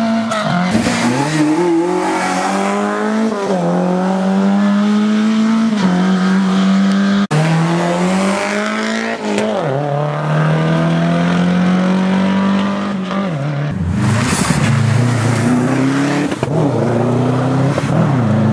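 Rally car engine driven hard on a stage, its pitch climbing and then dropping sharply with each gear change, over and over. A sudden break comes about seven seconds in, and a burst of hiss about fourteen seconds in.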